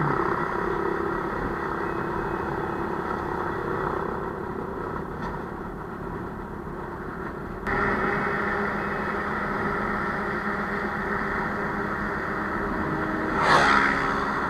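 A vehicle engine idling steadily, with a sharp rev near the end. The sound jumps abruptly louder a little past the middle.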